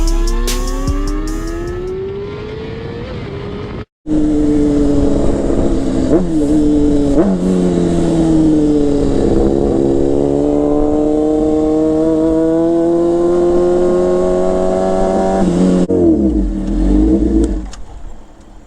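Motorcycle engine accelerating under way: the revs climb, cut out briefly about four seconds in, then pull steadily upward with two quick dips like gear changes. Near the end the revs fall and waver as it slows, and the sound fades.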